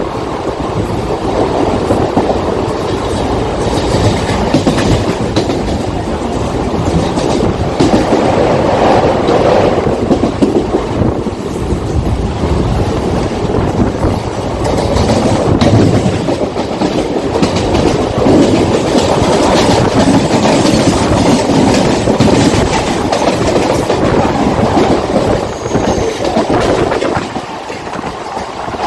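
Mumbai Western line suburban electric local train running along the track, a steady loud rumble with wheels clattering over the rail joints.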